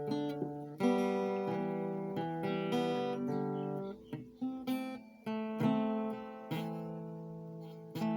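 Background music: acoustic guitar playing, chords plucked and left to ring, a new chord about every second.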